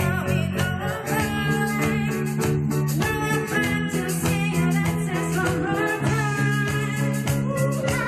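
A rock band playing a song, with guitars and bass chords over a steady drum beat.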